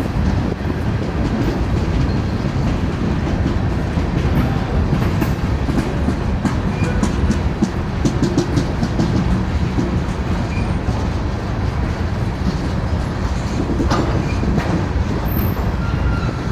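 A train passing close by, a steady heavy rumble with runs of rapid clicks as its wheels cross rail joints.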